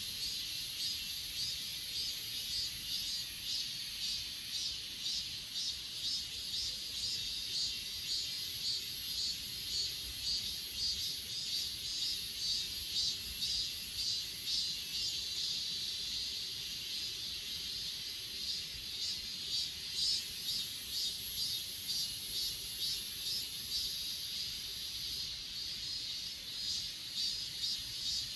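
Grass insects such as crickets chirping and trilling: a continuous very high-pitched trill under a rhythmic chirping that pulses about two or three times a second.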